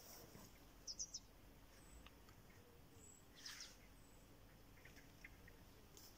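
Quiet outdoor ambience with a few faint bird chirps: a quick group of three high notes about a second in, then thin, sparse high peeps and a short call a little past the middle.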